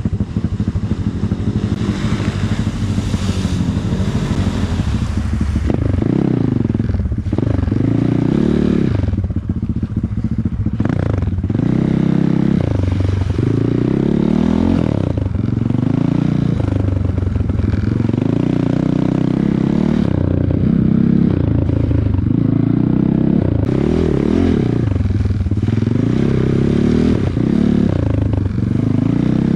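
Off-road vehicle engine under way, revving up and dropping back again and again every couple of seconds, as when riding over rough ground.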